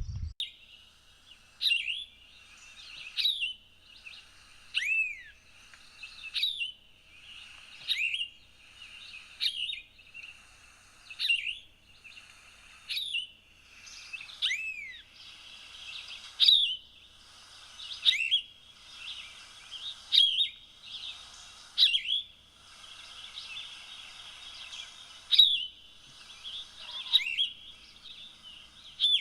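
A songbird singing the same short phrase over and over, about one phrase every one and a half to two seconds, each with a quick sweeping note, over a faint steady high hiss of insects or distant birds.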